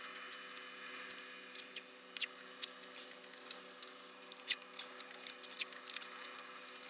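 Painter's tape being pulled off the roll and pressed onto cleaned metal: scattered small crackles and sharp clicks at irregular intervals.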